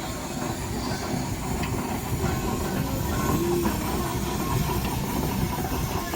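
A steam train running: a steady low rumble with a hiss of steam over it.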